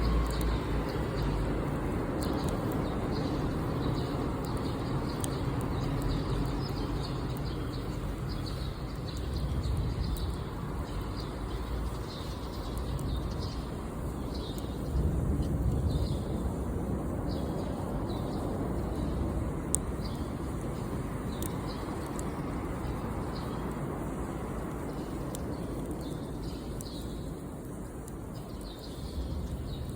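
Small birds chirping in many short calls over a steady low rumbling background, with occasional sharp crackles from a campfire.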